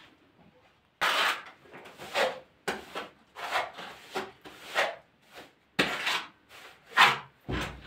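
A trowel scraping and spreading tile adhesive in about ten repeated strokes, starting about a second in, with a dull thump near the end.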